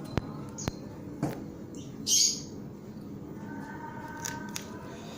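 Caged white-rumped shama: two sharp clicks in the first second, then one short, loud, harsh rasp a little over two seconds in.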